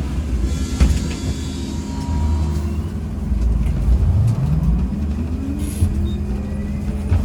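Inside a MAZ-203T70 trolleybus: low running rumble, with the electric traction drive's whine dipping about four seconds in and then rising steadily in pitch as the trolleybus accelerates. A brief hiss about a second in.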